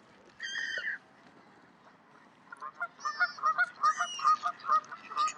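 A noisy flock of birds calling: one long call about half a second in, then, from about two and a half seconds in, a fast run of many short, loud calls.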